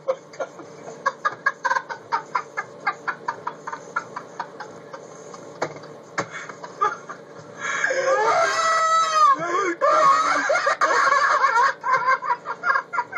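Animal calls: a run of short, rapid calls, then a louder, long wavering pitched call in the middle, then more short calls.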